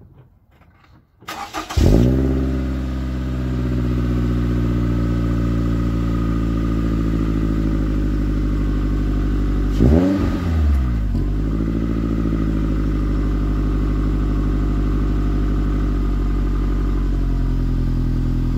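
A Scion tC's 2.5-litre four-cylinder engine, breathing through a newly fitted Borla S-Type cat-back exhaust, cranks and starts about a second in, flares up and settles to a steady idle. About ten seconds in it is given a single quick rev that rises and falls back to idle.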